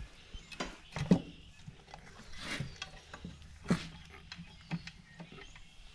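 Scattered clicks, clanks and short scrapes of hand tools and metal parts as bolts are fitted on a tractor engine, over a low steady shop hum.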